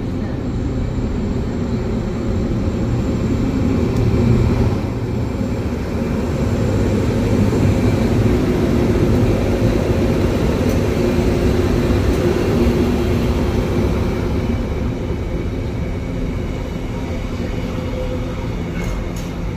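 A train running on the rails: a steady rumble with a low engine or motor hum that swells through the middle and eases off near the end.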